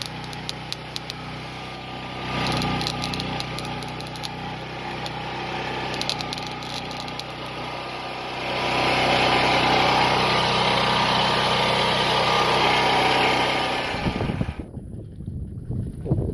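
A small engine running steadily, with scattered clicks and a louder rasping noise over it from about halfway through. Both stop shortly before the end.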